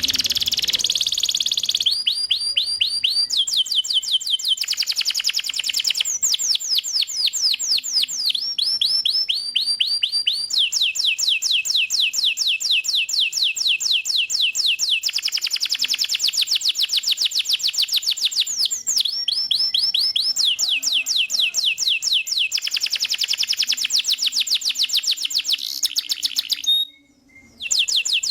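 Domestic canary in full song: a continuous run of rapid rolled trills, each a fast string of repeated high notes held for a second or few before switching to another trill. The song breaks off briefly near the end.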